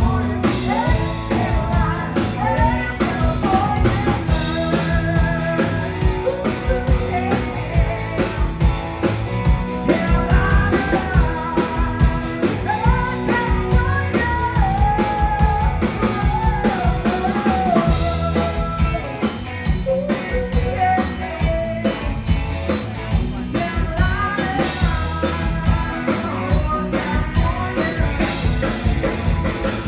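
A country band playing with a lead singer: a sung melody over a drum kit and band.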